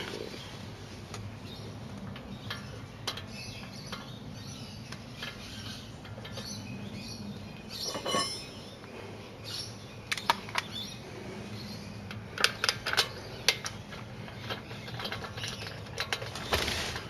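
Scattered light clicks and small metallic clinks over a low, steady background hum, with a quick cluster of sharp clicks about twelve to fourteen seconds in.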